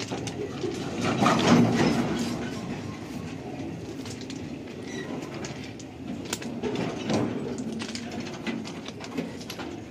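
Freight wagons in a rail yard being shunted: a low rolling rumble with scattered metallic clanks and clicks, loudest about a second in.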